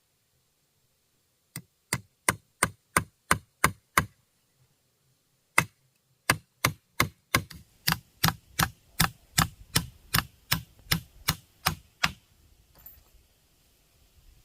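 A hand tool striking wood in steady, even blows about three a second. A run of about eight is followed by a short pause, then a longer run that stops near the end.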